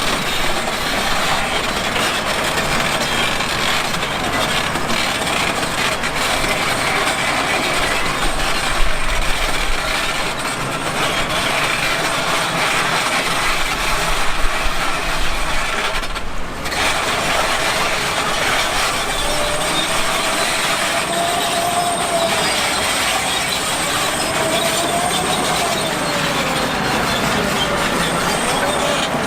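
Heavy earthmoving machinery at work: a diesel engine running under a continuous metallic clatter. The engine pitch rises and falls in the second half, and there is a brief break about sixteen seconds in.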